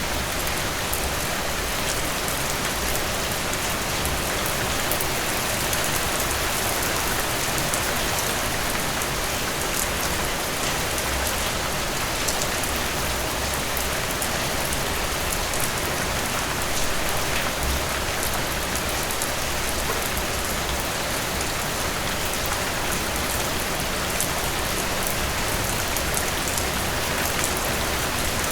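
Heavy rain falling steadily, a dense even hiss with many fine drop ticks. There is no thunder.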